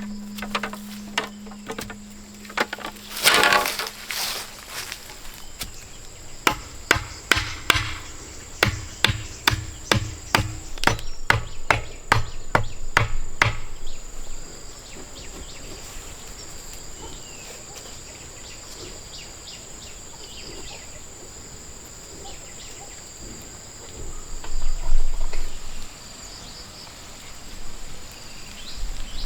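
Repeated chopping knocks on wood, about two a second, that stop about 14 s in. Insects keep up a steady high-pitched trill throughout, and a brief louder noise comes near the end.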